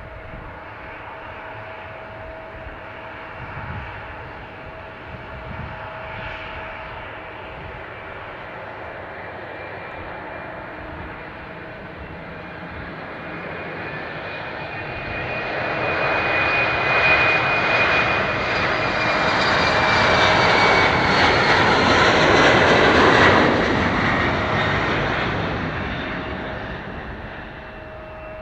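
Jet airliner's engines at takeoff thrust: a steady distant rumble that swells as the plane approaches, is loudest for several seconds about two-thirds of the way through, then fades as it climbs away. A high whine bends lower as it passes.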